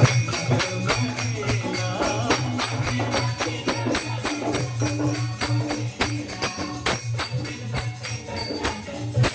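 Gondhal devotional music: a steady, fast beat of percussion strokes with bright metallic jingling over a held low drone tone.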